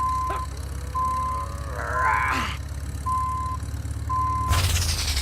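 Truck engine running with a reversing beeper sounding about once a second, short even beeps. Twice a short sound glides up in pitch, and near the end a loud rushing noise comes in.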